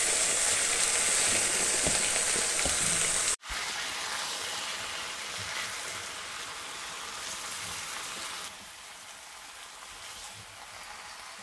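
Beef and vegetables sizzling in hot oil in a frying pan on high heat as cubed zucchini and eggplant are stirred in with a spatula. The sizzle breaks off for an instant about three seconds in, then carries on quieter and drops again near the end.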